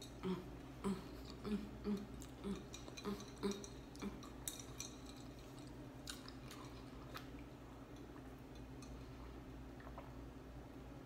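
Close-miked mouth chewing a mouthful of chicken pot pie, short soft chews about twice a second for the first four seconds, followed by a few light clicks and a quieter stretch.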